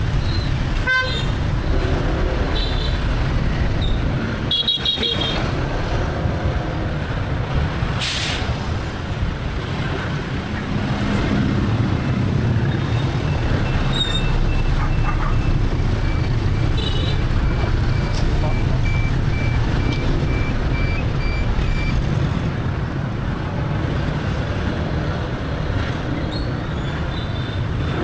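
Dense street traffic heard from a moving motorbike: a steady low rumble of engines, tyres and wind, with motorbike and car horns honking a few times, around 3 and 5 seconds in and again near 17 seconds. A run of quick, even beeps sounds for several seconds after the middle.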